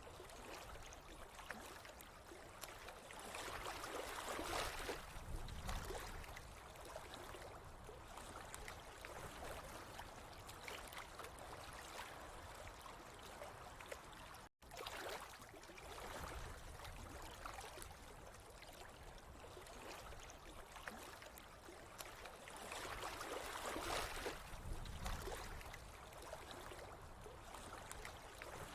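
Running water trickling and gurgling steadily, swelling louder twice, with a momentary dropout to silence about halfway through.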